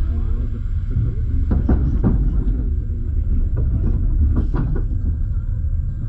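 Double-decker passenger train rolling slowly, heard from inside the carriage: a steady low rumble, with a few sharp clicks and knocks from the wheels over rail joints and switches.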